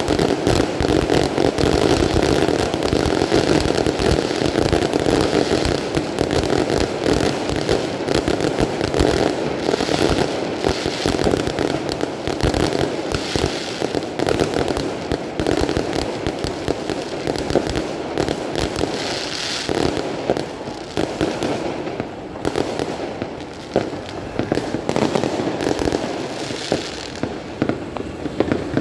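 A dense, continuous barrage of many fireworks and firecrackers going off at once: a steady rattle of overlapping bangs and crackles, easing off a little in the last third.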